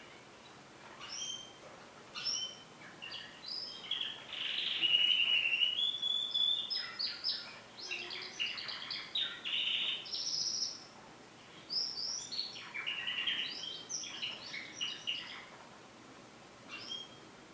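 Domestic canary singing a long, varied song of rapid trills and chirps, loudest with a held note about five seconds in. It breaks off near the end before one short phrase.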